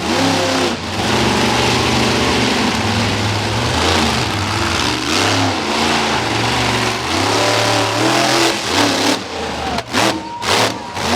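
Monster truck engine revving hard over and over, its pitch climbing and falling with each burst of throttle during a freestyle run, with a few abrupt breaks in the sound near the end.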